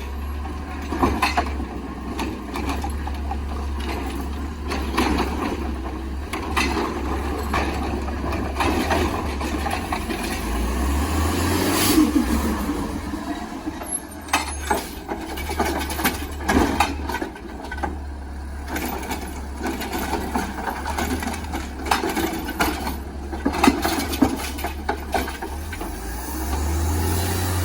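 Automated side-loader garbage truck running steadily, with repeated knocks and clatter from its lifting arm and the recycling cart being dumped into the hopper.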